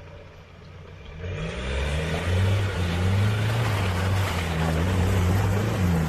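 A vehicle's engine running close by, with a rushing noise over it; it swells about a second in, its pitch rising and falling, then drops away sharply at the end.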